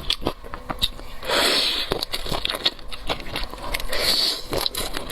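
Close-mic mukbang eating: a person biting and chewing crunchy food, with many small crackles and two louder crunches about a second and a half in and about four seconds in.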